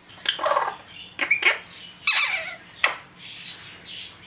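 Parrots calling: about four short, sharp squawks and chirps in the first three seconds, then a quieter stretch.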